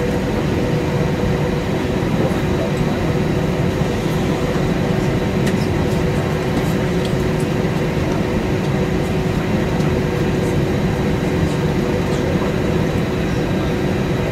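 Steady cabin noise inside a moving vehicle: an even rumble with a few constant hums and a faint high whine.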